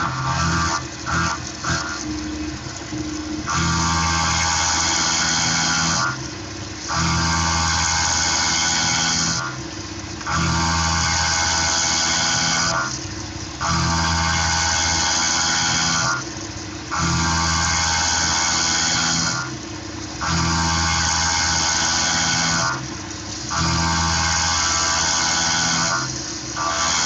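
End mill in a Tormach PCNC 1100 CNC mill cutting aluminum on an adaptive clearing toolpath. It gives a pitched cutting sound in repeated passes of about three seconds each, broken by short pauses, after a few quick short cuts in the first seconds.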